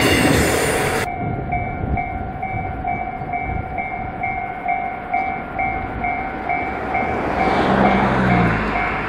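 The last container wagons of a JR Freight train rumble and clatter past on the rails, and the noise drops off sharply about a second in. After that a warning bell rings in an even pulse, about twice a second. Near the end, a distant electric commuter train adds a falling motor hum.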